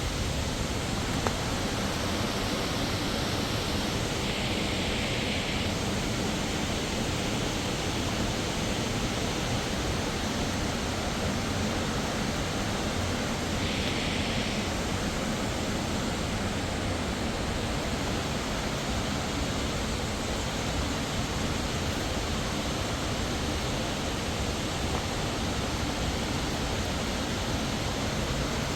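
Waterfall rushing: a steady, even roar of falling water, with two brief hissing swells.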